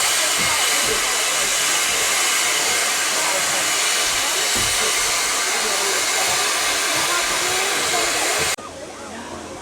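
Steam locomotive letting off steam: a loud, steady hiss with crowd voices faint beneath it, cutting off abruptly near the end.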